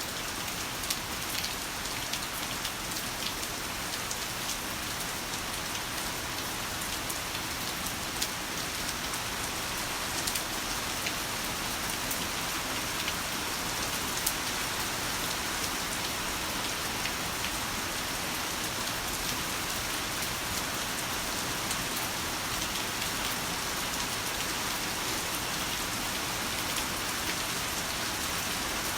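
Heavy rain falling steadily, an even hiss with scattered sharp drop impacts.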